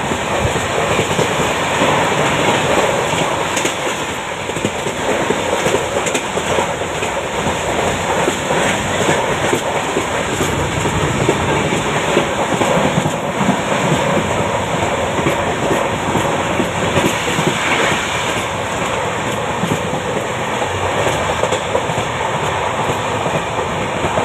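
Jabalpur–Veraval Express passenger coach running along the track, heard at its open doorway: a steady loud rumble of wheels on the rails with a continuous rapid clatter of clicks from the running gear and rail joints.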